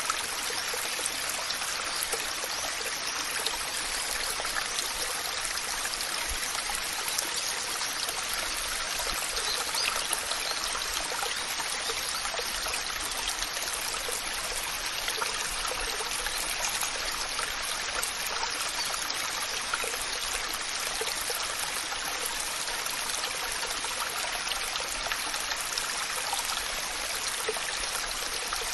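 Waterfall: water falling and splashing in a steady, even rush with a fine crackle of spray.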